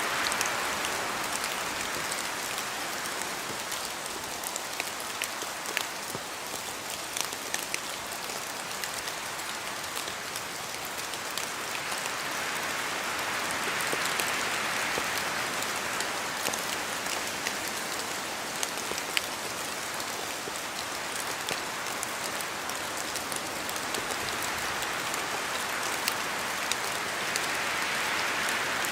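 Steady rain in a forest with wind in the trees, the rush swelling and easing in slow waves, and many scattered sharp drops pattering on leaves and the ground.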